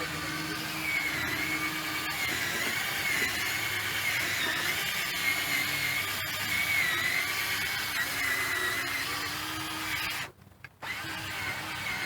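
Cordless drill running as it buffs polish on a plastic headlight lens, its motor whine wavering in pitch with the pressure. Near the end it stops for about half a second, then starts again.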